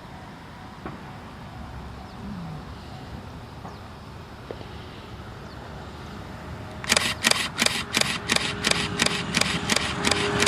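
Faint steady outdoor background, then about seven seconds in a camera shutter starts firing in a rapid burst, about four sharp clicks a second. A train's running noise begins rising underneath near the end.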